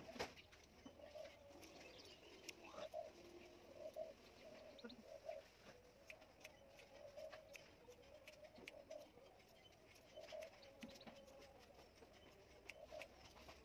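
Faint outdoor quiet with a bird cooing over and over in the background and scattered light clicks of scissors snipping hair.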